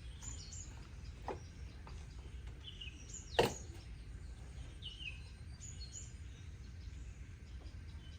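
Small birds chirping in short, falling notes, over a steady low rumble. A sharp knock sounds about three and a half seconds in, with a fainter one just after a second.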